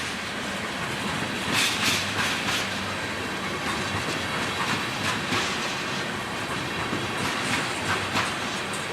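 Railroad cars rolling past, a steady rumble with wheels clacking over rail joints at uneven intervals.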